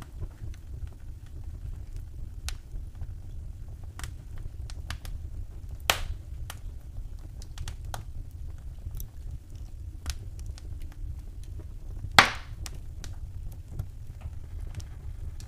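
Wood fire in a fireplace crackling: scattered small clicks and snaps over a low steady rumble, with a louder pop about six seconds in and the loudest pop about twelve seconds in.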